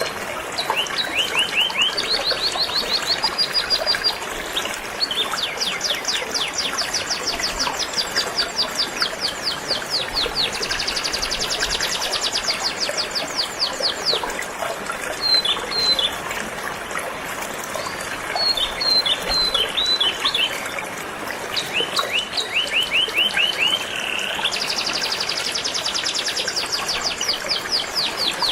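Canary singing in rapid trills of repeated high notes, switching from one trilled phrase to another every second or two, over the steady sound of flowing river water.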